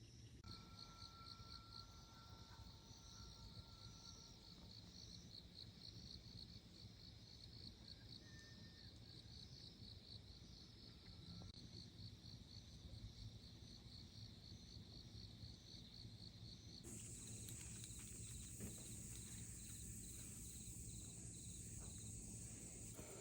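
Faint insects chirping in a fast, even pulse. About two-thirds of the way through, the chirping changes to a slower pulse over a steady high hiss.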